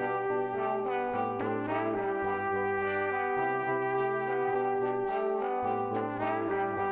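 Instrumental background music: sustained brass-like chords over a low bass note that changes every second or two.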